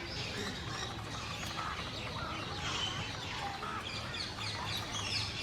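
Many birds chirping and calling at once, a dense chatter of short overlapping calls over a low steady hum.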